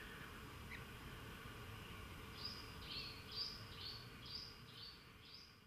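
A faint natural ambience with a low steady rumble; from about two seconds in, a bird repeats short high chirps about twice a second, alternating between two pitches, and fades out near the end.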